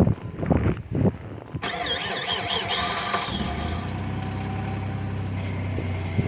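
Jeep engine cranking on the starter in rhythmic pulses, then catching about one and a half seconds in and settling into a steady idle, with a wavering high-pitched squeal for the first second or so after it fires. A cold start after sitting for two days in freezing weather.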